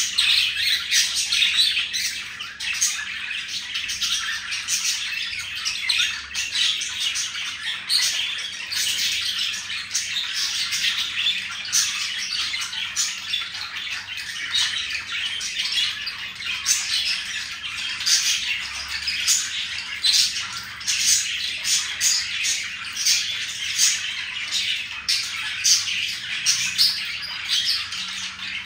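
Pet budgies chattering and warbling without a break: a dense run of quick chirps and scratchy squawk notes.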